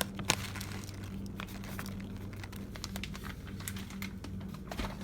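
Scattered light clicks and taps of kitchen utensils as brown sugar is spooned into the glaze, with one sharper click about a third of a second in. A steady low hum runs underneath.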